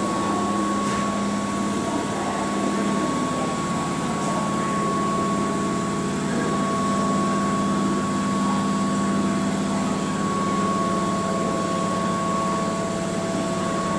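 Keihan electric train standing at the platform, its onboard air conditioning and auxiliary power equipment running with a steady hum and a constant high whine.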